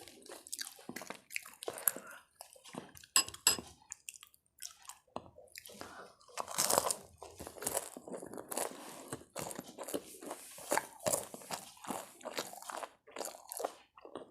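A person biting and chewing crunchy food in a run of irregular crunches, with a pause of about a second some four seconds in.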